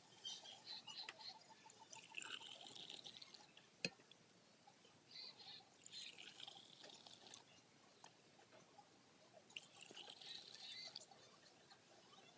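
Faint pouring of a thick chocolate milkshake from a mixer jar into a glass, in several short spells, with a single sharp tap about four seconds in.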